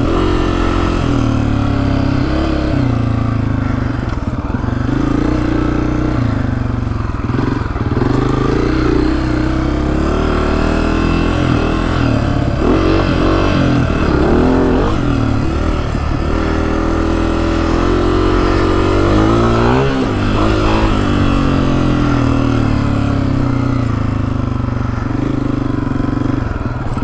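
Honda CRF250F's single-cylinder four-stroke engine running loudly under the rider, its pitch rising and falling with the throttle as the bike rides.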